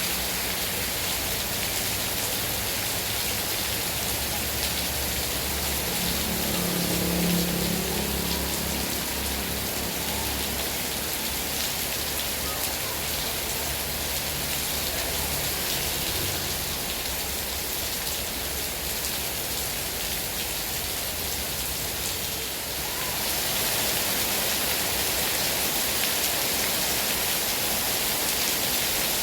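Heavy rain falling steadily, a dense, even hiss of drops on surfaces. A brief low sound rises out of it about seven seconds in, and the rain grows a little louder after about 23 seconds.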